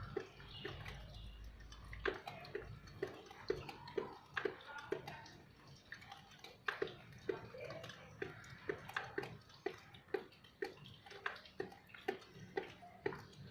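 Rainwater dripping after the rain has stopped: single drops land irregularly, about two a second, each a short sharp plink.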